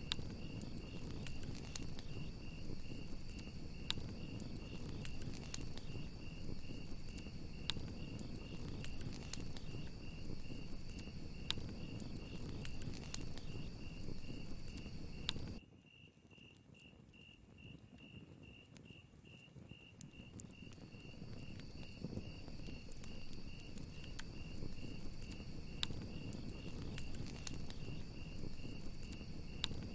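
Crickets chirping in a steady, evenly pulsing trill over a campfire crackling and popping. About halfway through, the fire and a second, higher cricket cut out suddenly, leaving only the one cricket, then fade back in over several seconds.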